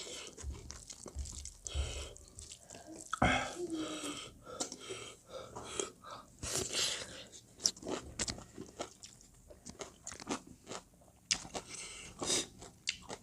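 Close-up chewing and biting of spicy pork curry, with crunching and irregular wet mouth clicks.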